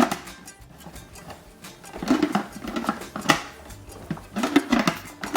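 Plastic toy parts clicking and knocking as they are handled: a Mega Bloks toy cement mixer's part being fitted back on, in a few sharp knocks about a second apart.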